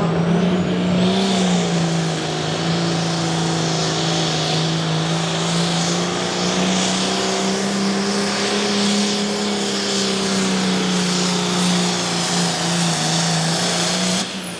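A pulling vehicle's engine running hard at high, nearly steady revs under load during a pull, with a high whine over it; it cuts off suddenly near the end.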